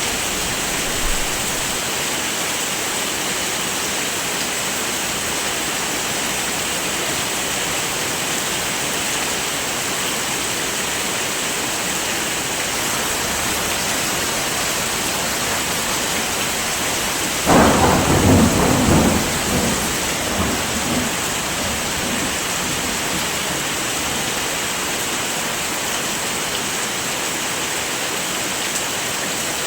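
Steady heavy rain, with a sudden thunderclap a little past halfway that rumbles off over about three seconds.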